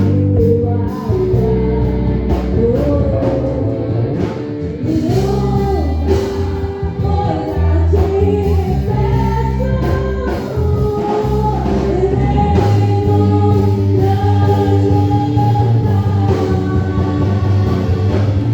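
Gospel praise song: voices singing a melody over instrumental backing with a steady bass.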